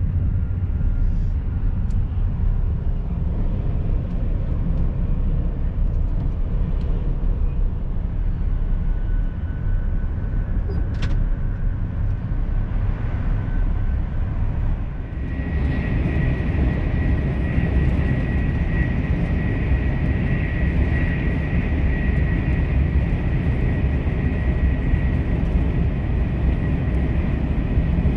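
A Euroduplex TGV high-speed train running with a steady low rumble. About halfway through, the noise grows louder and a steady high-pitched whine joins in.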